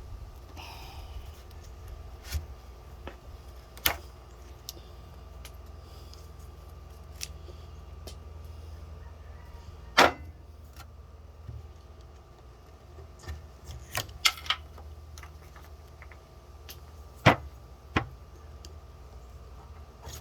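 Scattered sharp clicks and taps of metal hand tools on a workbench while old seals are picked out of a hydraulic cylinder part, the loudest knocks about halfway through and again near the end, over a low steady hum.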